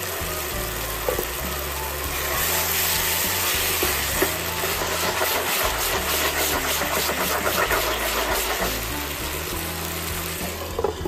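Sausage, mushroom and pea sauce sizzling in a frying pan, the crackle swelling from about two seconds in and easing off near the end, over background music.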